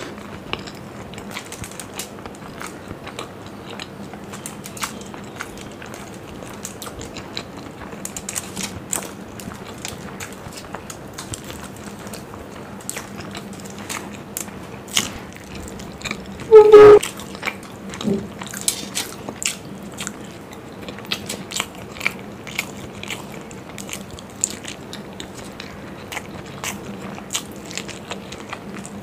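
Close-miked chewing and biting of masala-fried hard-boiled eggs, with many short wet clicks and smacks from the mouth. A short, loud pitched sound comes a little past halfway.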